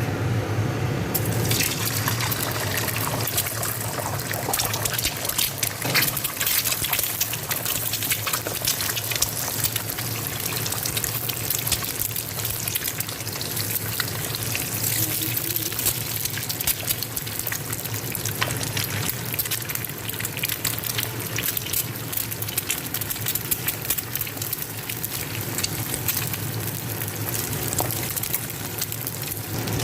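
Egg sizzling and crackling in hot cooking oil, the sizzle starting about a second in as the egg hits the oil and running on steadily.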